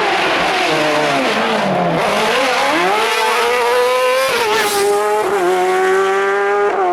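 Racing car engine at full song: its note falls for about two seconds as the car slows, then rises hard under acceleration, dropping back briefly three times as it changes up through the gears.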